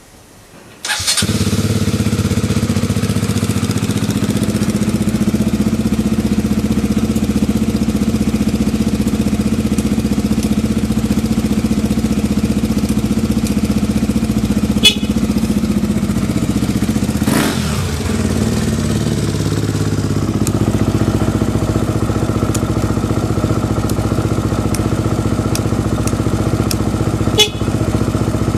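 KTM 200 Duke's single-cylinder four-stroke engine started with the electric starter, catching on the first try about a second in, then idling steadily with a few sharp clicks over it. The steady idle matches the seller's own check: first-press start, stable idle, no abnormal noise.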